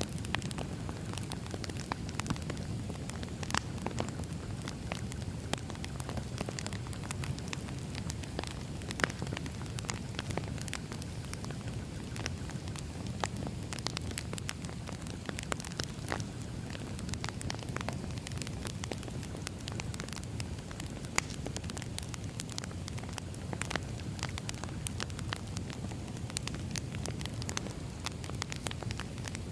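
Campfire crackling: a steady low rumble with irregular sharp pops and snaps throughout.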